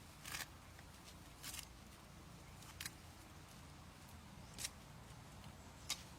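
Five short, crisp clicks or snips, roughly a second or more apart, over a faint low steady hum.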